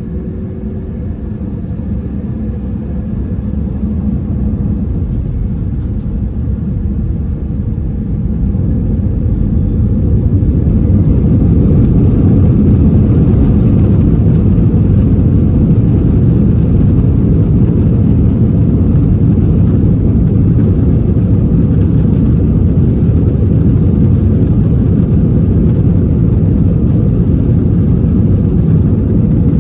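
Airbus A321 cabin noise: a steady low rumble of engines and airflow that grows louder over the first ten seconds or so, then holds level.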